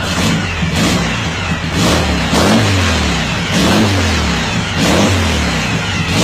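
Car engine and exhaust revved in short repeated blips, about four times, each climbing in pitch and dropping back to a steady idle between them.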